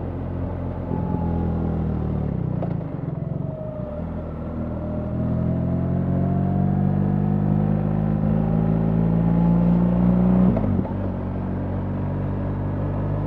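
BMW R 1300 GS's boxer-twin engine running under way. It eases off about two and a half seconds in, then pulls with a steadily rising pitch, loudest about ten seconds in, before a sudden brief dip and a return to a steady note.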